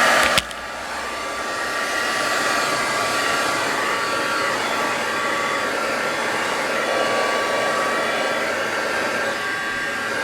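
Handheld electric hot-air blower running steadily, a hiss of air with a high motor whine; its loudness dips slightly about half a second in.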